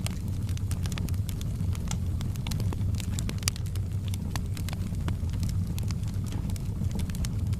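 Fire burning in a fireplace: a steady low rumble with many sharp, irregular crackles and pops.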